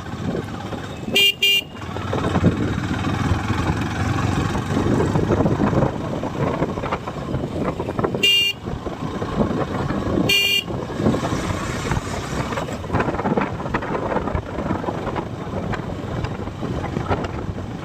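Steady road and wind noise on a moving motorcycle, with a vehicle horn tooting in short beeps: twice quickly about a second in, then twice more, a couple of seconds apart, around the middle.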